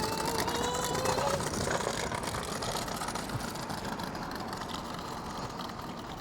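Electric train noise: a steady rushing rumble, with a faint whine rising slightly in pitch for the first second or so, easing off toward the end.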